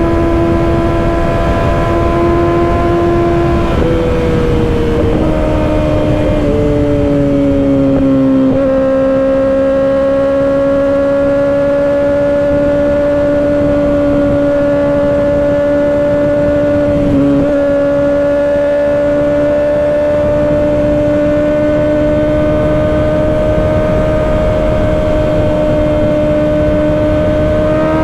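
Kawasaki Ninja ZX-6R 636's inline four-cylinder engine with an M4 exhaust, running under way with wind noise on the microphone. The revs drop in a few steps several seconds in, hold steady with a brief dip about halfway, and climb again at the very end.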